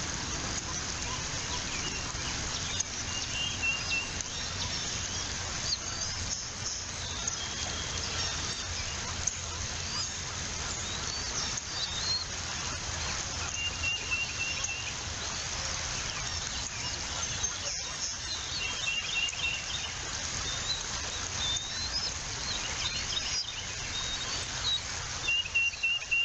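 Birds giving short, high-pitched chirping calls in quick runs of repeated notes, several times, over a steady background hiss.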